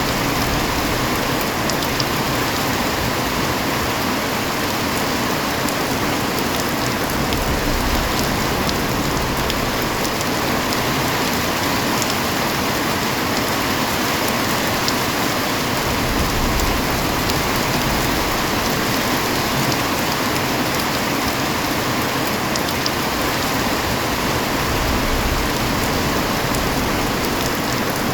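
Real rain falling steadily and densely, with scattered sharper drop ticks in the constant hiss.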